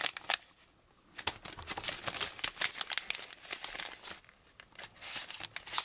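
Small plastic bag of styrene strip crinkling and crackling as it is handled and a length of square tubing is pulled out, with a short lull about half a second in.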